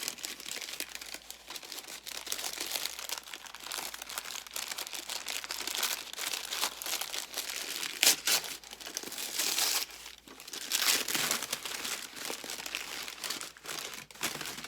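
Packaging crinkling and rustling as a mystery bag is opened by hand and its contents handled, with a few louder, sharper crackles partway through.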